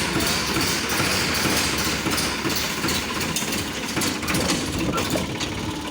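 Diesel engine of a 42 HP Farmtrac tractor running steadily with a rattle while the tractor is driven along.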